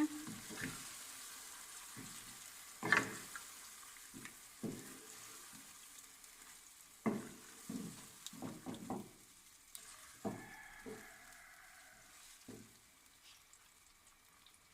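Yogurt-marinated chicken sizzling in hot oil in a karahi as it is stirred, a spoon scraping and knocking against the pan at irregular moments. The sizzle fades gradually.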